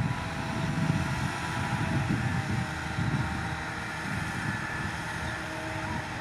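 Shantui bulldozer's diesel engine running under load, a steady uneven rumble.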